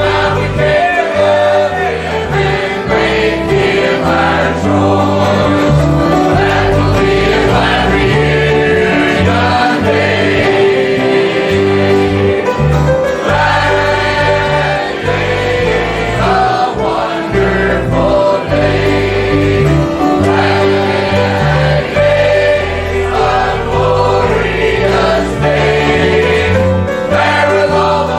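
Choir singing gospel music with a bass line changing notes underneath.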